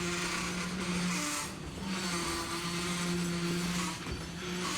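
Freight train rolling by with its air brakes applied: brake shoes pressing on the wheels give a steady squeal over a scraping hiss. The squeal breaks off briefly a few times.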